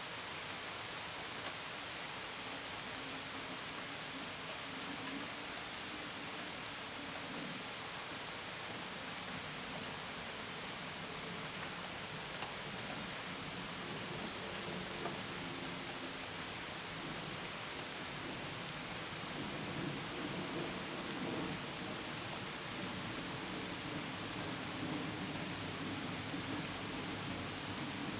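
Steady gentle rain falling, with drops pattering on a window and gutters, and crickets chirping faintly at an even pace. A low hum from a passing airplane overhead swells in the second half.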